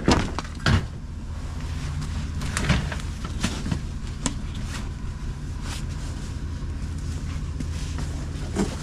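Steady low hum of an idling vehicle engine, with a few short knocks and clicks, the loudest about a second in.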